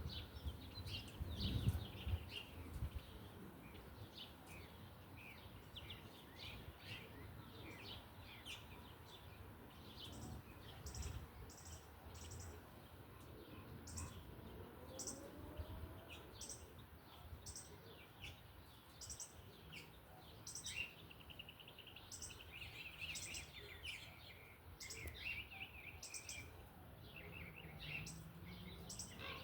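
Several small birds chirping and calling, many short overlapping chirps, with a high thin note repeating about once a second from about a third of the way in. A low rumble comes in the first few seconds.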